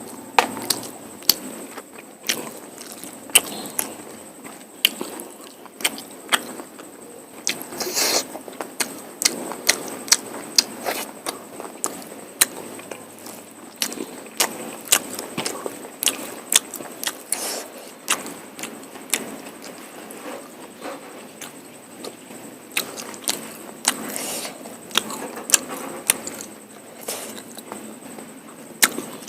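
Close-miked eating sounds of mutton curry and polao rice: chewing, with frequent sharp wet clicks and lip smacks at an irregular pace.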